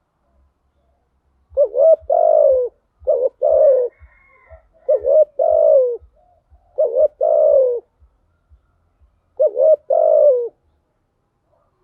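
Spotted dove cooing: five repeated phrases starting about a second and a half in, each a quick pair of short notes followed by a longer, falling coo. It is the bird's calling song, played as a lure call to draw in other doves.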